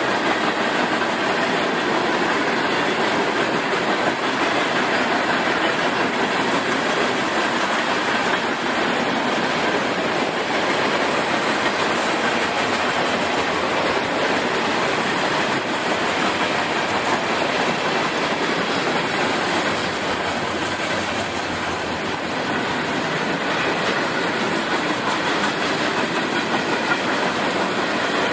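Train cars rolling past on the track, a steady loud rolling noise that does not let up.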